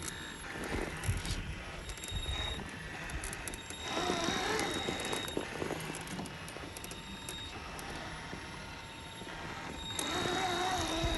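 1/10-scale RC crawler truck driving: a high electric motor whine that comes and goes with the throttle, over scattered clicks and knocks, with two louder passages of wavering sound.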